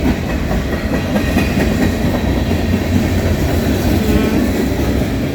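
Freight train cars rolling past close by: a steady, loud rumble with the clatter of wheels over the rail joints.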